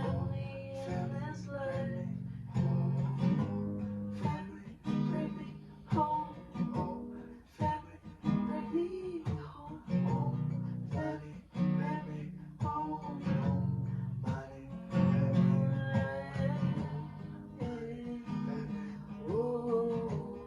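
Acoustic guitar strummed, with a voice singing over it.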